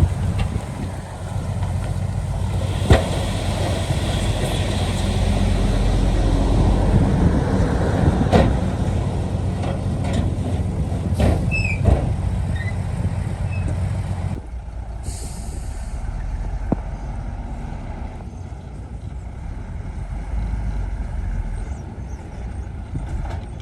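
Shantui D95 bulldozer's diesel engine running under load, with several sharp knocks. About fourteen seconds in the engine note drops and runs lighter, and a brief hiss follows.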